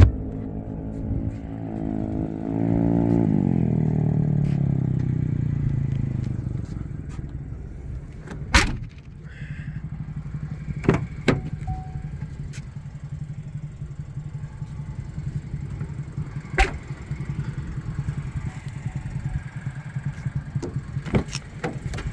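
Engine sound rising in pitch for a few seconds, then slowly falling away. About eight seconds in comes a loud thump, the Chevrolet Trax's liftgate being shut, followed by the Trax's engine idling steadily, with a few sharp knocks.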